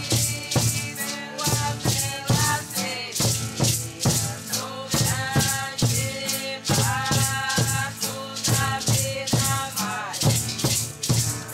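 Music of voices singing over hand rattles shaken in a steady beat, about two shakes a second.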